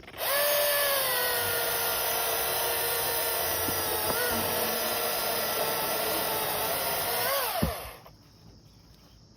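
Milwaukee Fuel 16-inch battery chainsaw cutting through a log, its electric motor running with a steady whine that dips slightly in pitch under load. Near the end the whine rises briefly, then winds down and stops about eight seconds in.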